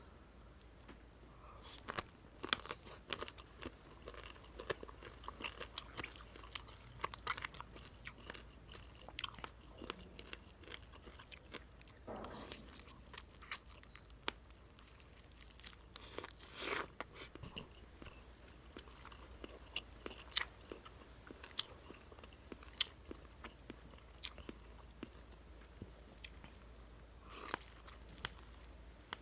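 Close-miked eating: crunchy bites and chewing. They come as many sharp, irregular clicks, with a few longer, noisier bursts about twelve, seventeen and twenty-seven seconds in.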